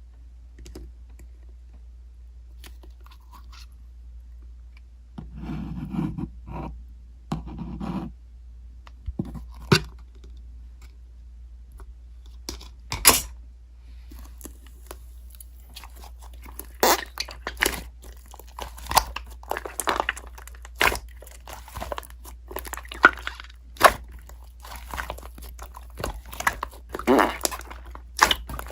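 Irregular crunching and chewing: sharp crackling clicks that come thicker after about fourteen seconds, with a few duller thumps before that.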